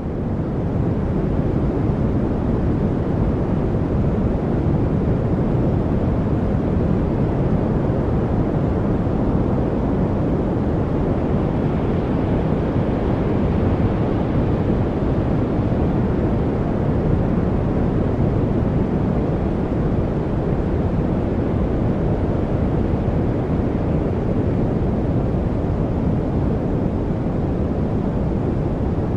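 Steady, deep masking noise with most of its weight in the low end, like brown noise, that fades up in the first second and then holds level with no birds, drips or other distinct sounds standing out.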